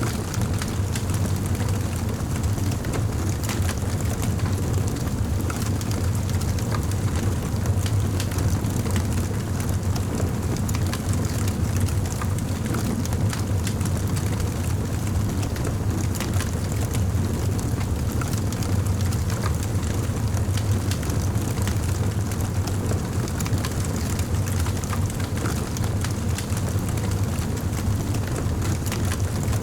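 Wood fire in a fireplace crackling, with frequent small pops over a steady low rumble.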